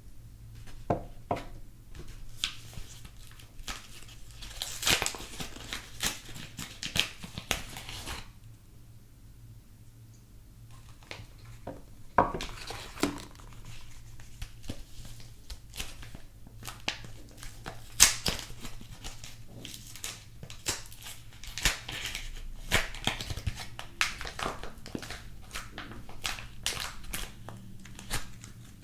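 Soap packaging being handled and unwrapped by hand: clusters of crinkling and tearing with sharp clicks, with a quieter stretch of a few seconds about a third of the way in.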